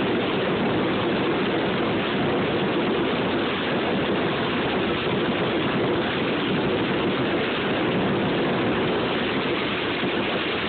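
Fireworks fizzing and crackling close by: a continuous dense rush of noise with no single loud bang standing out.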